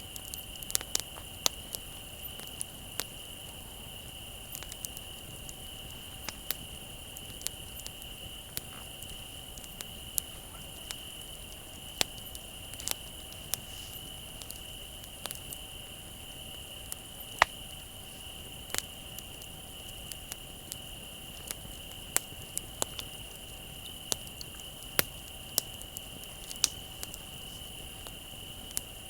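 Wood fire crackling with irregular sharp pops, over crickets chirping in a steady high-pitched trill.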